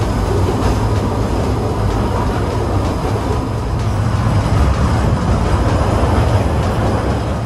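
Kurobe Gorge Railway trolley train running on the track, a steady loud rumble and rattle heard from inside the enclosed passenger carriage.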